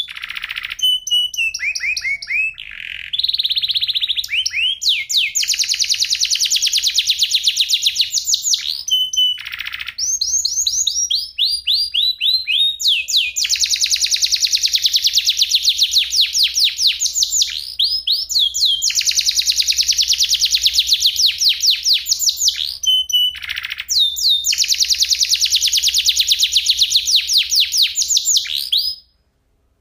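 Domestic canary singing long, rapid rolling trills of repeated high, clear notes, broken by short gliding phrases; the song stops abruptly near the end.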